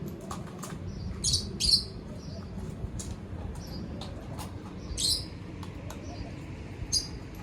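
Small birds chirping: a few short, high chirps about a second and a half apart, with faint clicks between them, over a steady low hum.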